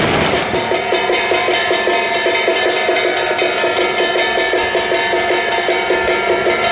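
Fast, steady beat of Taiwanese temple-procession percussion: a drum or wood block struck about five times a second over continuous ringing from gongs or cymbals, with a louder crash right at the start.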